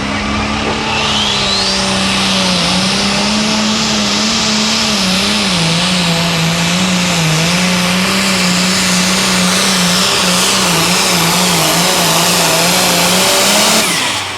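Turbocharged diesel pulling tractor running at full throttle under load, its engine pitch wavering up and down, with a rising turbo whine about a second in. The engine note drops away sharply near the end as the throttle comes off.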